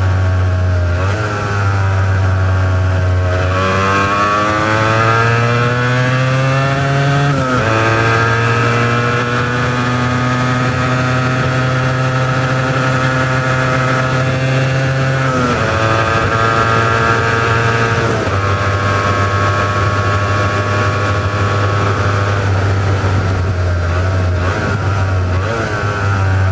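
Honda NS400R's three-cylinder two-stroke engine on its stock exhausts, under way. The pitch climbs for several seconds and drops sharply at a gear change about seven seconds in. It then holds a nearly steady high note, drops again around fifteen seconds in, and carries on at a steady to slowly falling pitch.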